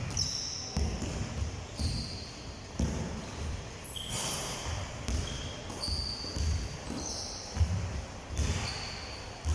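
Basketballs bouncing on a hard gym floor, with repeated thuds about one or two a second, and short high sneaker squeaks in between.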